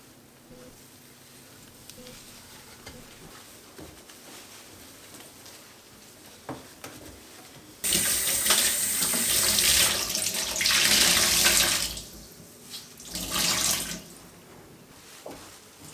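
Water running from a tap into a sink, turned on suddenly about halfway through and running for about four seconds, then a shorter second run near the end.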